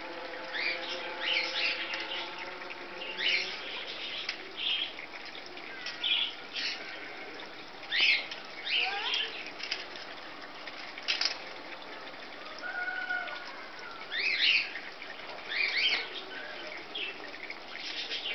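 Small birds chirping, short high chirps repeating irregularly every second or so over a steady outdoor background hiss.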